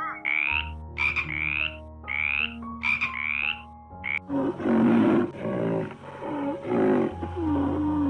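Short rising cawing calls for the first few seconds, then a run of deep, rough frog croaks over soft background music.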